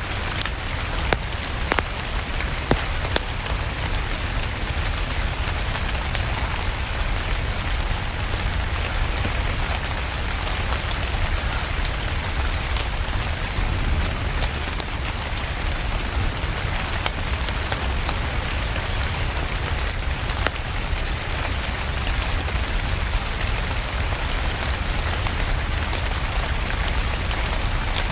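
Steady rain ambience with a low rumble underneath and scattered sharp crackles from a fireplace fire.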